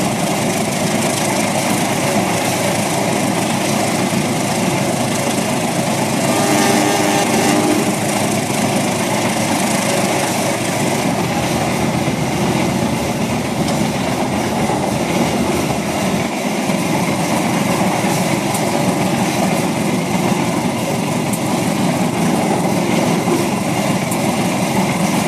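MTH RailKing O-gauge model trains running on track: a steady rumble of wheels clicking over rail joints with the hum of the motors. A short pitched sound joins in about six and a half seconds in.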